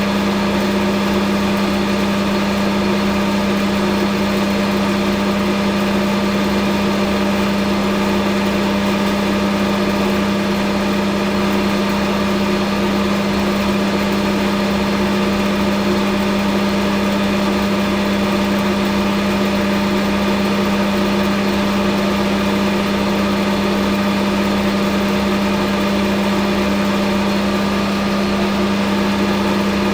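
Hafco AL960B metal lathe running steadily, its motor and gearing giving an even hum with no change in speed.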